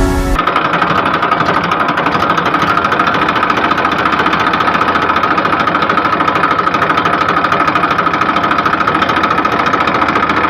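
Mini tractor's small engine running steadily with a fast, even knocking beat. It cuts in abruptly just after the start.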